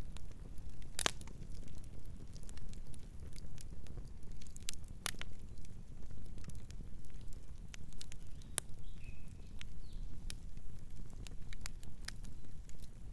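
Wood fire burning with a steady low rumble of flames and irregular sharp crackles and pops of burning wood. The loudest pop comes about a second in.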